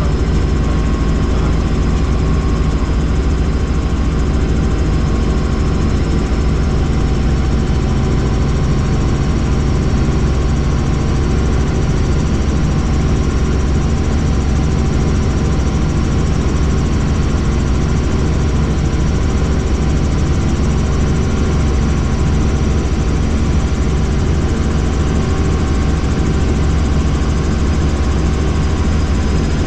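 Helicopter in flight: a steady, loud rumble of rotor and engine that holds even throughout.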